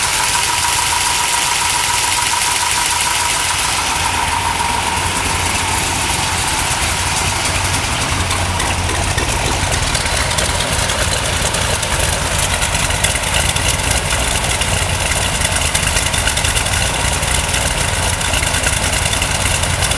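1963 Corvette Stingray's fuel-injected 327 V8 running steadily at idle.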